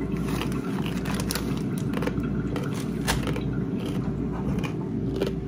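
Crunchy Corn Nuts being chewed: a run of irregular hard crunches over a steady low background hum.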